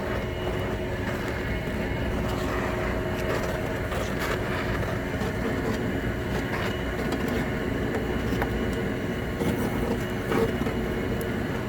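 A torch flame burning steadily with a constant hiss, with a few faint ticks.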